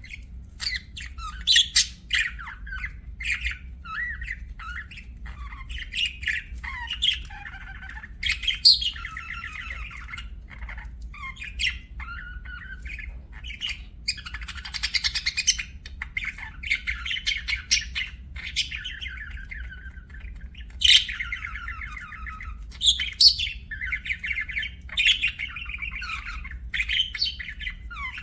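Budgerigars chirping and warbling continuously, a busy chatter of short chirps, trills and sharp squawky calls.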